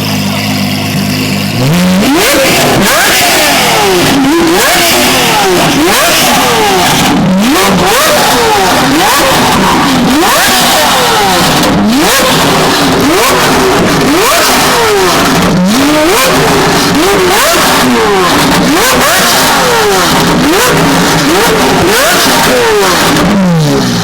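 Performance car engine idling, then revved hard again and again, each rev rising sharply and dropping back about once a second, before settling back to idle near the end.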